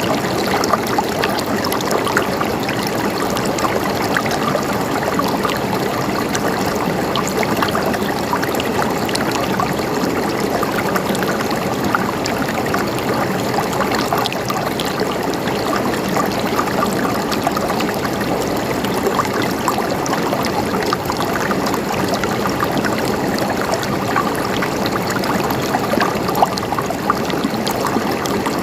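River water flowing and trickling steadily over rocks, an even rushing with small splashes.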